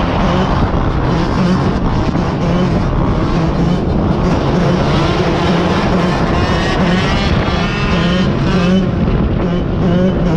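Motorcycle engine running steadily while riding, with wind rushing over the microphone. About halfway through, a higher wavering whine rises and falls, as revs change.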